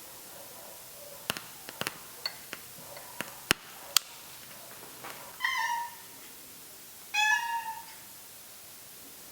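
A domestic cat meowing twice, two short calls a second and a half apart, after a string of sharp clicks and taps.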